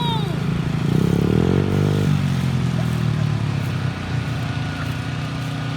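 Mini dirt bike engine revving up over about a second, then dropping back about two seconds in to a steady run.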